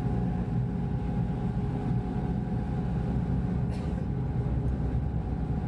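Passenger ferry's engines running steadily: a constant low drone with a steady whine above it.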